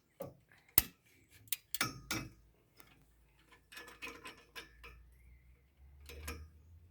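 A run of sharp metal clicks and clinks from tools and steel parts being handled, the loudest about a second in and a quick cluster around two seconds. A low hum comes up near the end.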